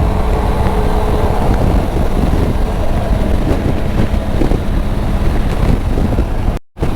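Wind rushing over a helmet-mounted microphone, with a Triumph Tiger 900's three-cylinder engine running underneath while riding in highway traffic. The audio cuts out for a moment near the end.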